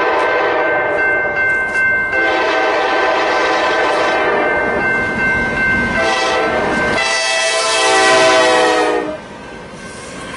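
Diesel locomotive air horn sounding a chord in several long blasts, the last cutting off about nine seconds in, leaving the running noise of the passing train.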